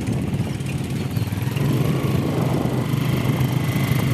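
An engine running steadily, with an even low hum.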